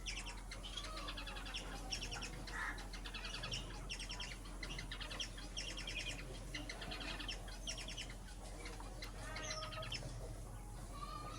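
A group of small cage birds chirping and chattering, with many short bursts of quick calls overlapping one another.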